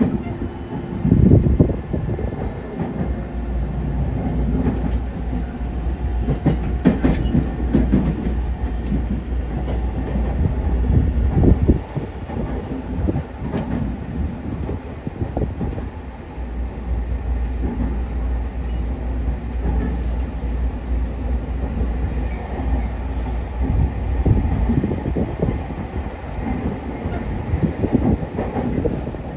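Rinkai Line 70-000 series electric train heard from inside the car while running: a steady low rumble of wheels and running gear, with scattered knocks from the rails.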